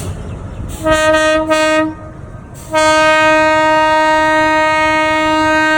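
Train horn sounding two short blasts, then one long steady blast, over the low noise of the running train.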